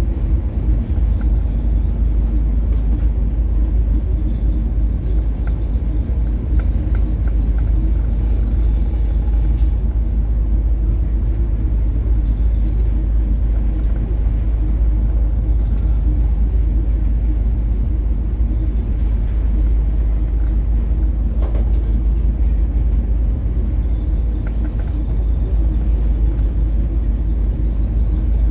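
Steady low rumbling drone of a coastal cargo ship's diesel engine and hull under way in heavy seas.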